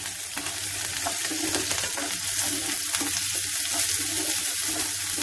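Diced potato, onion and green chilli with mustard seeds frying in hot oil in a nonstick pan, a steady sizzle, while a slotted metal spatula stirs them and scrapes the pan.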